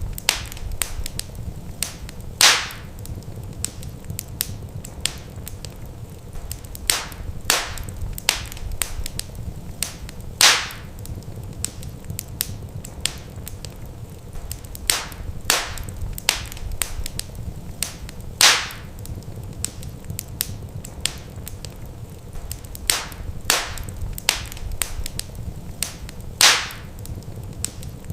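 Wood fire in a fireplace crackling, with irregular small snaps and four louder pops spaced evenly through the stretch, over a steady low rumble.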